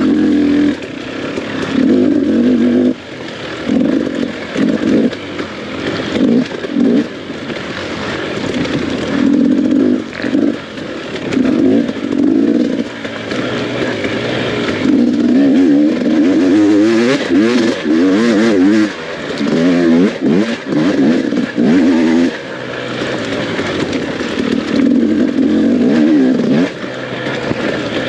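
Dirt bike engine revving up and down over and over as the throttle is opened and shut in short bursts.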